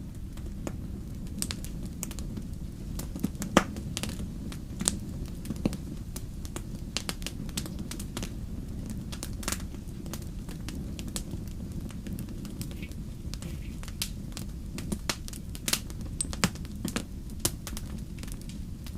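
Wood fire crackling, with frequent irregular sharp pops over a steady low rumble; one pop about three and a half seconds in stands out as the loudest.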